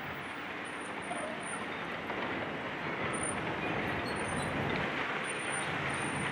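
Heavy demolition machinery running: a steady, dense mechanical rumble and clatter with no distinct impacts.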